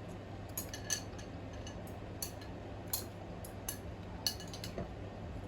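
Eating utensils clinking and tapping against a bowl while eating, about eight light, irregular clinks.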